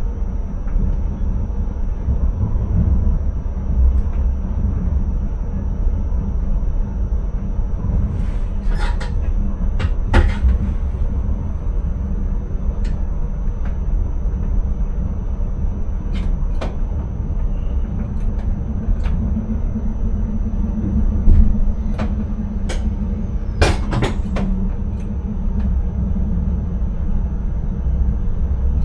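Intercity train running, heard inside the driver's cab: a steady low rumble with a faint high whine over it, broken by scattered sharp clicks and knocks, several in quick pairs, around ten seconds in and again near twenty-four seconds.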